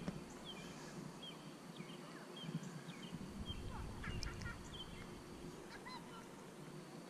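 Birds chirping faintly in the background: many short, scattered calls, with a low rumble a couple of times.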